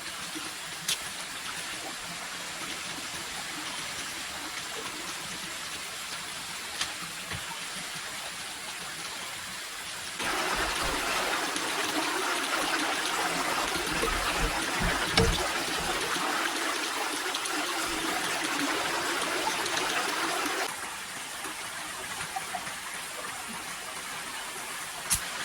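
Steady rushing of running water with a few faint clicks. It jumps louder abruptly about ten seconds in and drops back just as abruptly about ten seconds later.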